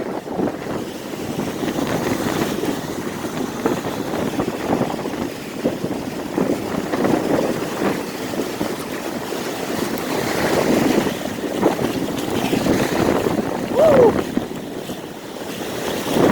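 Heavy surf breaking and washing in strong wind, a steady churning rush of water with wind buffeting the microphone. A brief falling squeal cuts through about fourteen seconds in.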